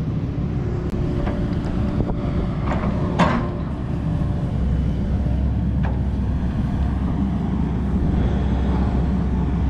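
JCB digger's diesel engine running steadily, with a few short knocks and clanks, the sharpest about three seconds in.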